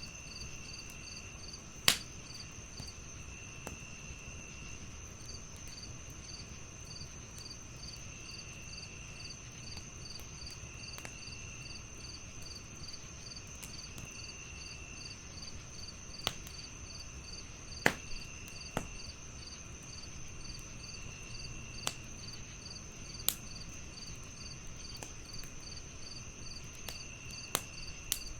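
Crickets chirping steadily in several voices: one continuous high trill, one fast pulsing chirp, and a lower trill that comes and goes in stretches of a second or so. A wood fire crackles now and then with sharp single pops, the loudest about 2 seconds in and again near the middle.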